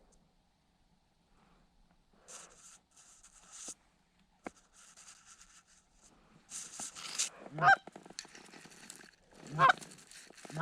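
Canada goose honks: three loud honks about two seconds apart in the second half, with softer rustling hiss before them.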